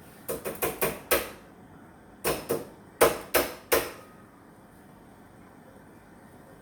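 About ten sharp knocks in three quick clusters, five, then two, then three, each dying away quickly, all within the first four seconds.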